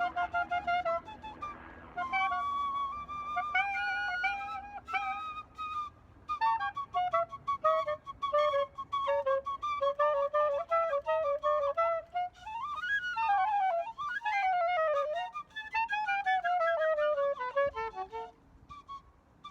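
A flute playing a solo melody of quick, separate notes, with several sweeping slides up and down in pitch around the middle.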